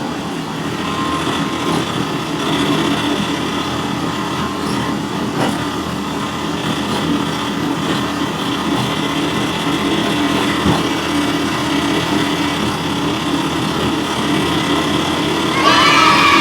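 A small electric motor runs steadily with a buzzing whine, as on a motorised DIY toy tractor. Near the end, a quick burst of rising tones cuts in.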